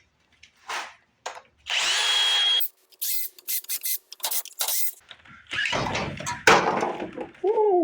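Handheld power driver running in a steady burst of about a second, then several short bursts and a longer run, backing out the crankcase cover bolts of a Briggs & Stratton 17.5 HP engine; the bolts are held with thread-locker.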